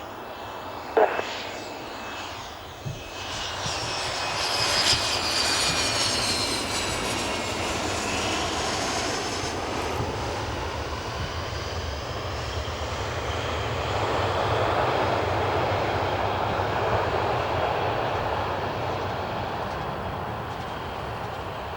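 Jet aircraft engines running, with a high whine that falls steadily in pitch over several seconds as the aircraft passes, then a roar that swells and slowly fades. A short sharp click comes about a second in.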